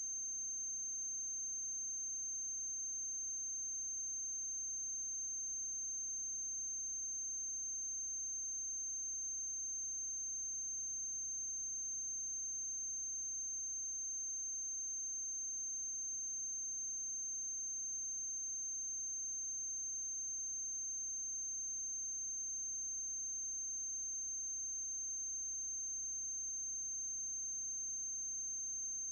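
Steady high-pitched electrical whine, unchanging, over a faint low mains hum; there is no other sound on the track.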